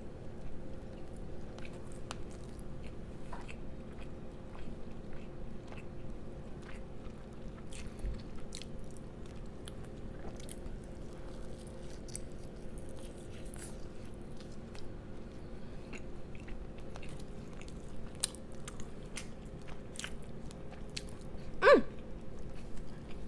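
Close-miked chewing and biting, with many small wet clicks and crunches from the mouth, over a steady low electrical hum. Near the end there is one short, louder sound that falls in pitch.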